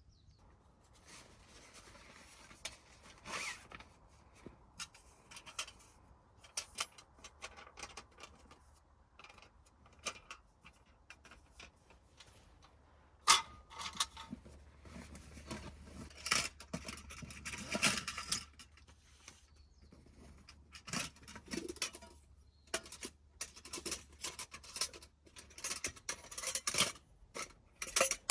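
Irregular rustling, light clicks and knocks of camping gear being handled, with one sharper knock about thirteen seconds in and busier rustling after it.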